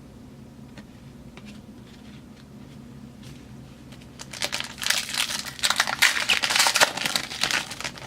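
Faint clicks of cards being handled, then about halfway through a trading-card pack wrapper crinkling loudly as it is torn open and crumpled.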